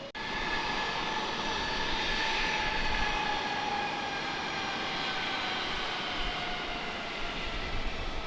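Jet engines of an Airbus A321 running at takeoff thrust on its departure from runway 27. A steady jet noise carries a few whining tones that slowly fall in pitch.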